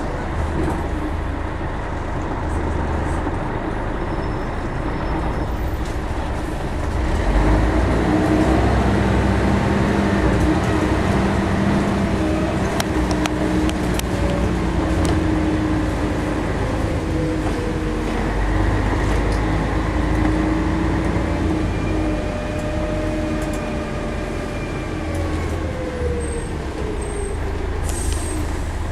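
Diesel engine of a Scania L113-CRB single-deck bus, an 11-litre straight-six, running steadily, then getting louder and rising in pitch as the bus pulls away and accelerates about seven seconds in. Its pitch steps through changes and falls away near the end as the bus slows.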